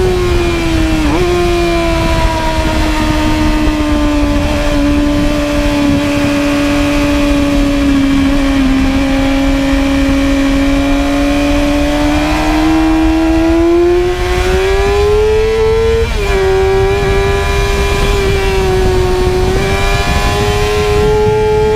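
Inline-four supersport motorcycle engine running hard on track, with wind rushing over the bike. The engine note sags slowly, climbs for several seconds, then drops sharply once about two-thirds of the way in, as on a shift, and holds high again.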